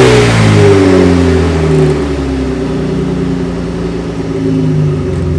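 Supercharged V6 Camaro's exhaust: the engine's revs fall away after a blip and settle to a steady idle about two seconds in.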